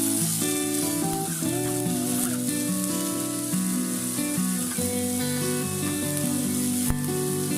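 Food sizzling as it fries in a pan, a steady hiss, under instrumental background music with changing melodic notes.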